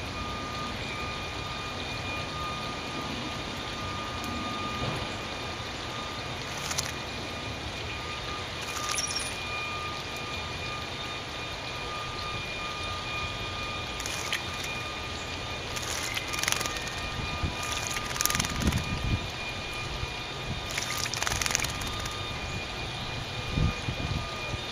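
A small bird splashing in a bird bath, several short bursts of splashing as it flutters its wings in the water, more of them in the second half. A steady background rumble runs underneath.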